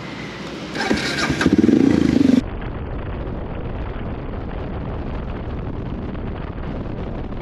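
Suzuki DR650 motorcycle's single-cylinder engine being started, loudest about two seconds in. Then the sound turns suddenly duller, a steady engine-and-road drone.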